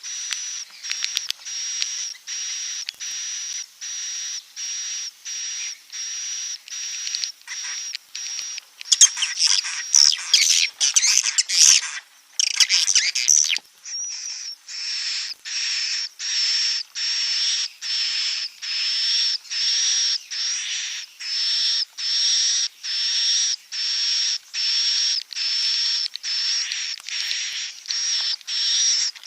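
Edible-nest swiftlet calls from a swiftlet lure recording: short, high, buzzy chirps repeated evenly about twice a second, with a denser, faster burst of twittering between about 9 and 13 seconds in.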